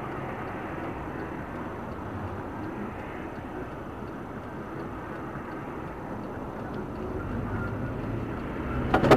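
Steady running noise of a car on the move, engine and tyres on the road, heard from inside the vehicle. About nine seconds in, a sudden loud burst of clattering noise begins.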